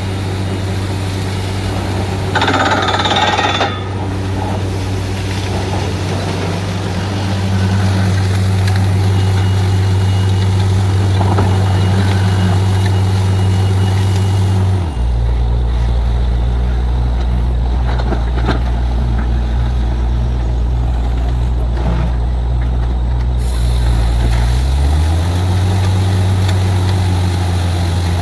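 Borewell drilling rig's engine running steadily at a heavy load. Its pitch drops about halfway through and climbs back near the end, with a short hiss a few seconds in.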